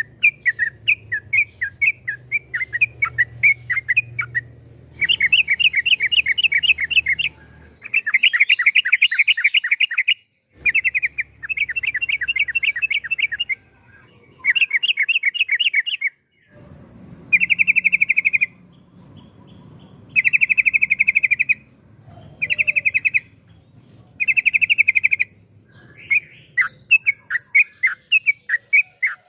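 Yellow-vented bulbul singing: bouts of very fast repeated notes, each run lasting a second or two with short pauses between, opening and closing with slower separate chirps.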